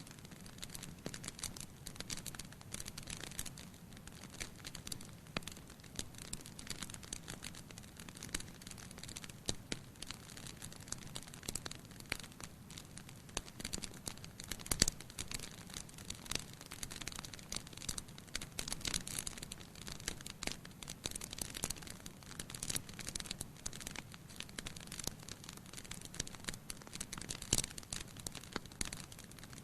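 Wood fire burning in a fireplace: a dense, irregular crackling of snaps and pops over a low steady hiss, with a louder pop about halfway through.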